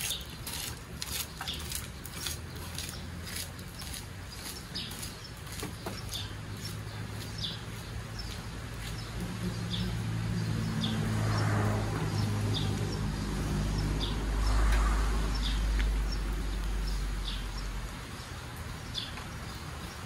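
Small birds calling with short, high chirps repeated about once a second. In the middle a low engine rumble swells and then fades away.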